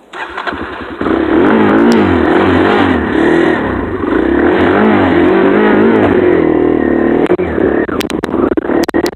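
Dirt bike engine running while being ridden, revving up and down over and over. It comes in loud about a second in and turns choppy near the end.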